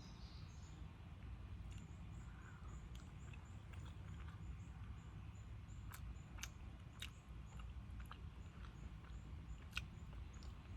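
Quiet outdoor ambience with a faint high chirp repeating about twice a second, from a bird or insect, and a steady low rumble. From about six seconds in come several sharp clicks and taps of eating.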